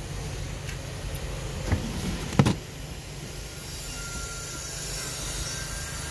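Steady low hum of the Toyota Harrier's idling engine, with a couple of small clicks and one sharp knock about two and a half seconds in.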